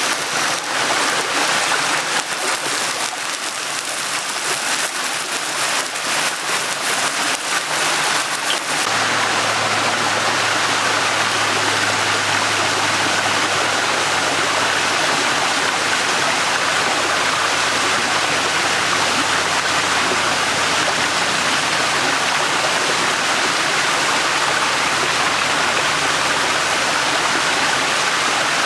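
A shallow stream flowing and burbling steadily. For about the first nine seconds many small clicks sound over it, then the sound changes abruptly to a smoother, steady rush of water.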